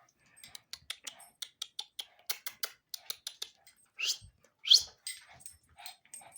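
A dog: a quick string of sharp clicks and taps, then two short high-pitched cries about four seconds in, the second rising in pitch and the loudest.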